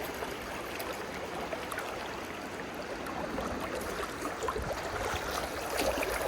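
Steady rush of flowing river water, with a few faint small ticks.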